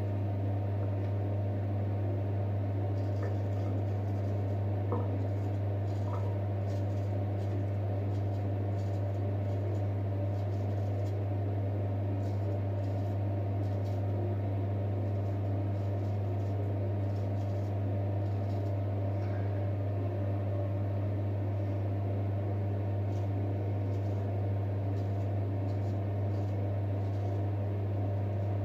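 Steady low electrical hum throughout, with faint short scraping strokes of a straight razor cutting stubble coming and going over it.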